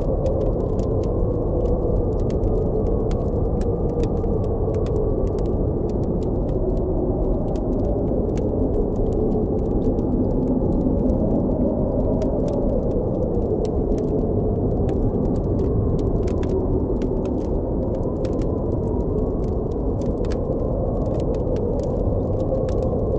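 Blizzard wind blowing steadily with a low howl that slowly wavers in pitch, over a campfire crackling with frequent small sharp pops.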